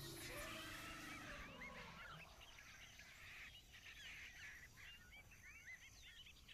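Faint outdoor background with many short bird chirps.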